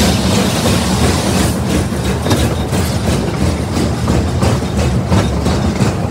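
Train pulled by a Shay geared steam locomotive, heard from an open passenger car as it rolls along: a steady low rumble with a quick, even beat.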